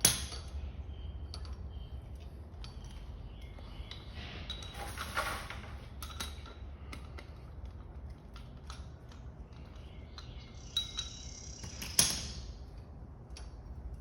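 Small metal parts clicking and clinking as motorcycle fork internals are handled and fitted back together, with a sharp metallic knock at the start and another near the end, over a steady low hum.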